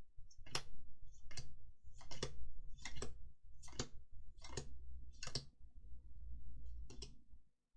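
Magic: The Gathering trading cards being flicked through one at a time from a freshly opened booster pack, a crisp card snap about once a second, with a longer pause near the end.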